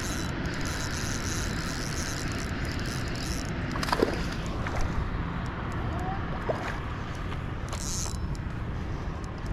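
Steady low rushing noise, with a few light knocks or clicks in the middle.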